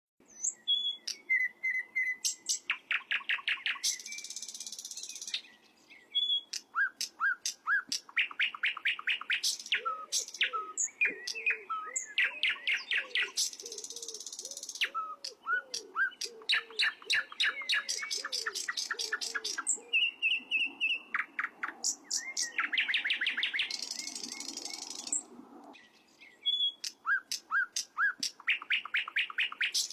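Sikatan londo, a small flycatcher, singing in repeated phrases of rapid trilled notes mixed with whistled chirps and harsh, buzzy rasps. The phrases come again about every five or six seconds.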